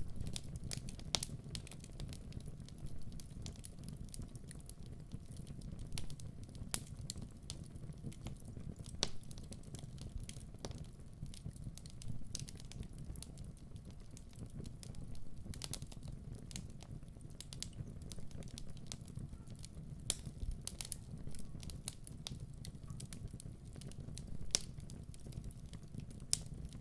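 Wood fire crackling in a hearth: irregular sharp pops and snaps over a steady low rumble of flames.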